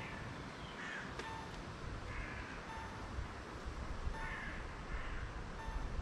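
A crow cawing, hoarse calls a couple of seconds apart, over a faint repeating short tone and a low rumble.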